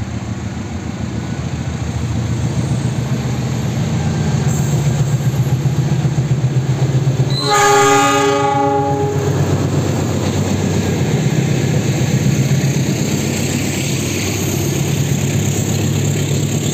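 KAI diesel-electric locomotive drawing a passenger train past, its engine rumble growing louder as it approaches. Its horn sounds one blast of about a second and a half about halfway through, then the carriages' wheels clatter over the rail joints as they roll by.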